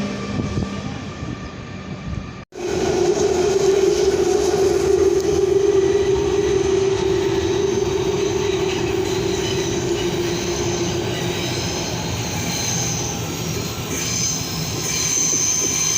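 A train running through a large station, with a steady whining tone for several seconds and a high squeal near the end. The sound breaks off abruptly for a moment about two and a half seconds in.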